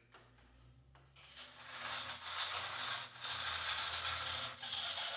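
Aurora HO slot car's small electric motor running with a rattly, buzzing noise, building up about a second in and dropping out briefly a couple of times. The noise is traced to the top side of the armature.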